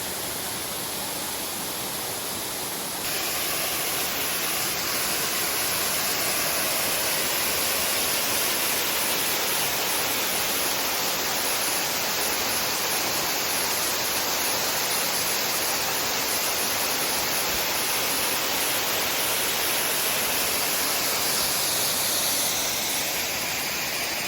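Creek water rushing over a small rainforest waterfall, a steady rush that gets slightly louder about three seconds in.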